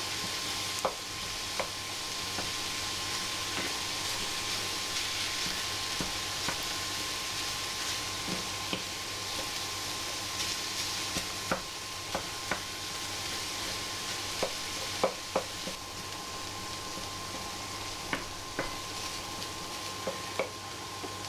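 Minced beef sizzling steadily in a frying pan while a utensil stirs it and breaks up the lumps, knocking sharply against the pan now and then.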